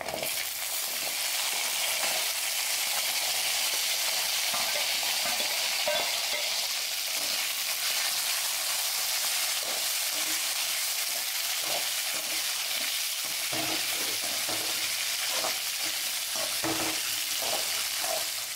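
Whole shallots sizzling in hot oil in a metal pan with dried red chillies and coriander seeds, just after being tipped in. A ladle stirs and scrapes the pan, with the strokes coming more often in the last five seconds.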